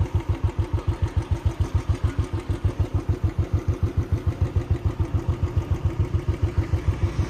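Motorcycle engine running steadily at a low, even putter of about ten beats a second, with no rise or fall in speed, as at idle.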